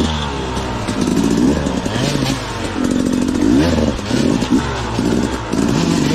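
Two-stroke dirt bike engine revving hard in repeated surges, its pitch climbing and dropping about once a second.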